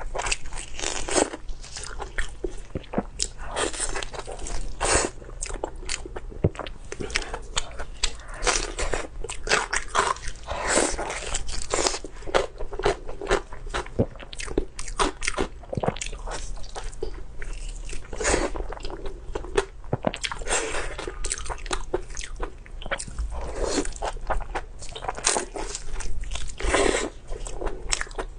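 Close-miked chewing and biting of food, a steady run of short, irregular mouth noises.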